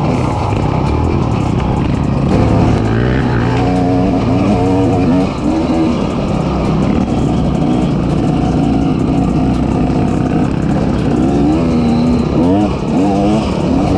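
Off-road vehicle engine running as it rides, its pitch rising and falling again and again with the throttle.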